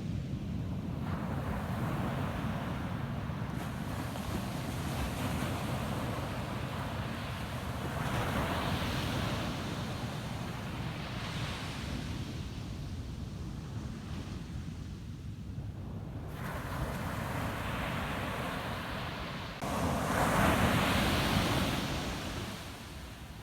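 Ocean waves breaking and washing up on a sandy beach: several swells rise and fade over a steady low rumble of surf, the loudest breaking suddenly near the end.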